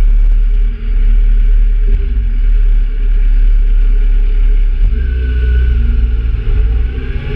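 Kawasaki Z750 motorcycle engine running, with a heavy low rumble; the engine note changes and grows stronger about five seconds in.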